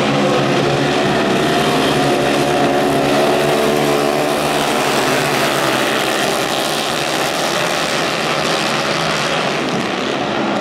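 A pack of flat-track racing motorcycles running hard together at high revs, several engine notes overlapping and wavering in pitch as the riders work the throttle through the turns. The sound is slightly louder in the first half.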